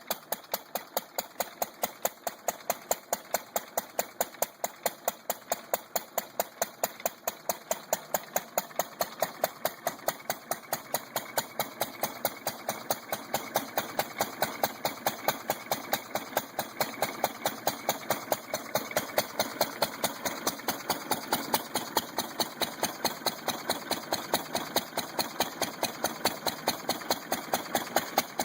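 International Harvester LB single-cylinder stationary gasoline engine running steadily, each firing stroke a sharp pop, about three a second.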